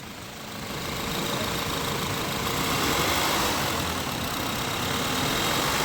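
Audi Q5 2.0 four-cylinder engine being revved after a fresh oil change. The engine sound builds over the first two or three seconds and then holds at raised revs.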